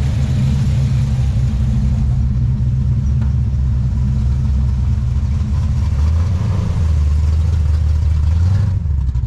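A classic car's engine rumbling steadily at low speed as the car rolls in, the rumble growing deeper and stronger about six seconds in.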